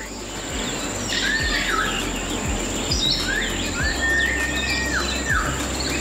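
Birds calling with clear whistled notes that glide up and down, several short ones and one longer held whistle in the middle, over a steady high thin whine and a low background rumble.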